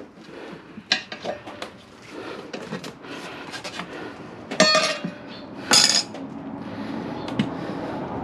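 Metal tire levers clinking and scraping against a motorcycle wheel rim as the tire bead is levered on, with a loud ringing clank about four and a half seconds in and a scraping clatter just after.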